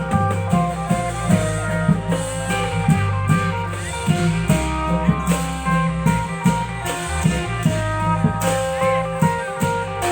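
Thai klong yao long-drum band playing: a plucked-string melody over a steady drum beat of about two hits a second.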